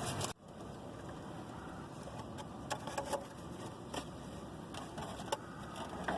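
Steady low rumble of a car interior, with a few faint clicks and taps.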